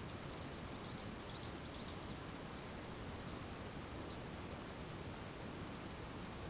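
Steady hiss of falling rain. A bird gives a quick run of short, high chirps over the first two seconds, and one more about four seconds in.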